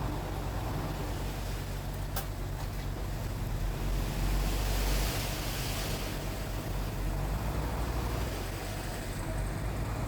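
Heavy earthmoving machine's diesel engine running steadily with a low hum, with one sharp click about two seconds in.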